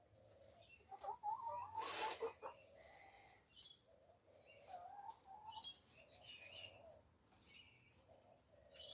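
Backyard chickens making soft, scattered clucks and trilling chirps, with a short rustle about two seconds in.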